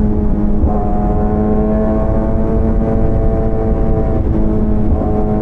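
Motorcycle engine running at steady revs while riding, over a low wind and road rumble. The engine's pitch shifts briefly about a second in and again near the end.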